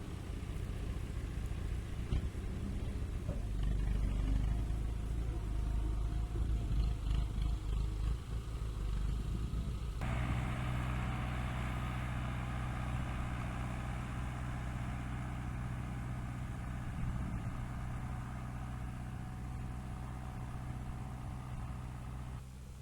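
Tractor engine running steadily. The sound changes abruptly about ten seconds in and then holds an even, steady note.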